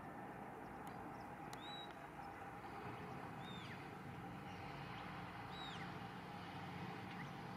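A bird calling three times, about two seconds apart, each call a short high note that falls away in pitch, over a steady background hiss.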